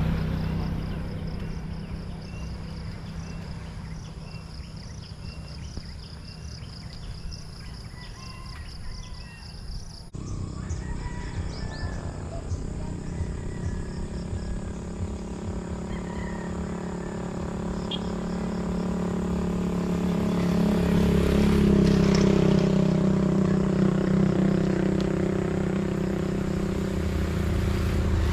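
An engine running steadily, growing louder around twenty seconds in.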